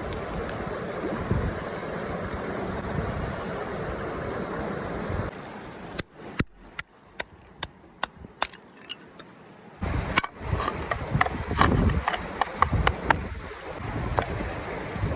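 Steady rush of river water with wind on the microphone. For a few seconds in the middle the rush drops away and a run of sharp clicks and taps stands out, with more scattered clicks once the rush returns.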